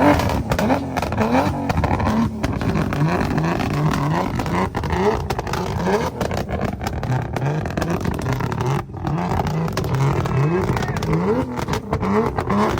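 A car engine revved in quick repeated throttle blips, its pitch rising with each blip, with sharp exhaust pops and cracks throughout.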